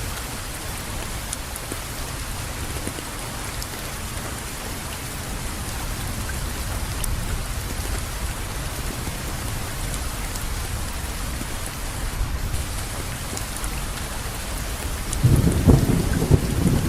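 Steady rain falling, with faint scattered drop ticks. Near the end a low rumble of thunder rolls in, the loudest sound.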